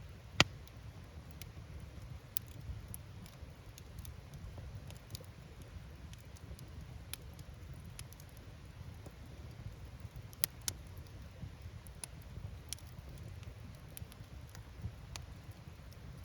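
Open wood fire crackling: scattered sharp pops of burning firewood over a steady low rumble. The loudest pop comes about half a second in, and two more close together come about ten seconds in.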